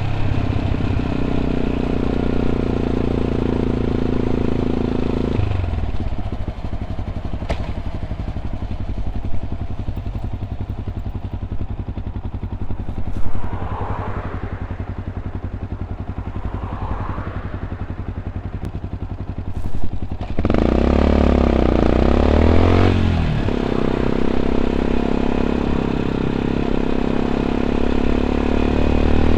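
Yamaha WR 125 X's single-cylinder four-stroke engine breathing through an Arrow exhaust with dB killer. It runs at a steady speed, drops to a lower, steady idle for about fourteen seconds, then revs up sharply about twenty seconds in and pulls away, holding a steady note to the end.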